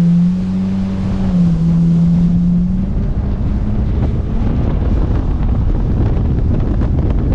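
Engine running at speed, a steady hum stepping up and down in pitch for the first few seconds, then heavy wind buffeting on the microphone over the engine's rumble.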